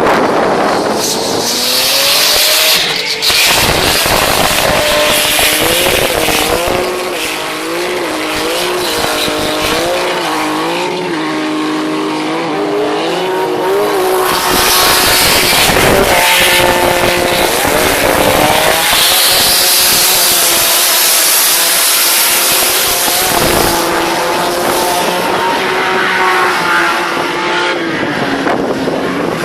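Car engine revved hard while drifting on a wet road, the revs rising and falling about once a second, over loud tyre noise.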